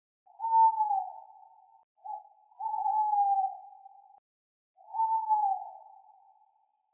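Owl hooting: three long, drawn-out hoots, each sliding slightly down in pitch, with a short hoot just before the second.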